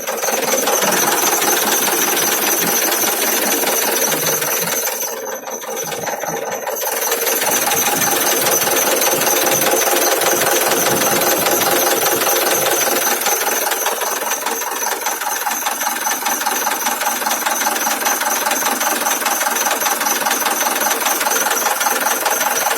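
Truck engine running steadily with a rattle, briefly quieter about five seconds in.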